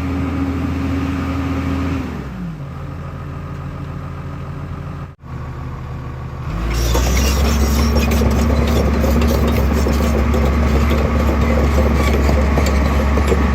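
Diesel engine of a heavy machine, an excavator or tractor, running steadily, dropping to a lower idle about two seconds in, then speeding up again near seven seconds and running louder and harder to the end.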